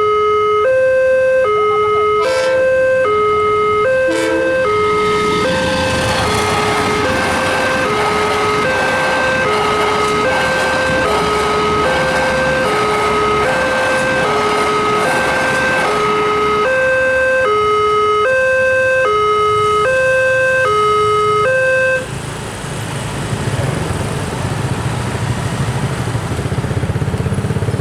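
Railway level crossing's electronic warning alarm sounding, alternating between two tones about once a second, while a train passes over the crossing with a steady rush of wheels on rails. The alarm cuts off suddenly about 22 seconds in, leaving a low rumble of vehicle engines.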